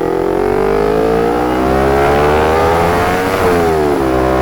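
Motorcycle engine accelerating, its pitch rising steadily, then dropping sharply about three and a half seconds in as the rider shifts up a gear, and holding steady after.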